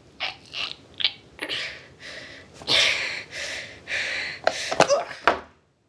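A person making mock choking noises: a string of short breathy gasps, coughs and hissing wheezes, with a couple of strangled voiced sounds near the end before it cuts off suddenly.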